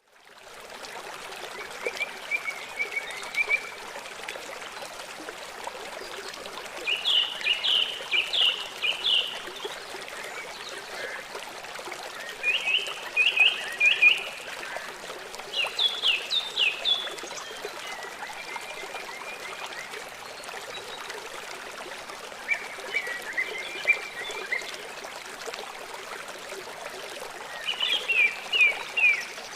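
A songbird singing short phrases of quick, sharp notes, repeated every few seconds, over a steady hiss.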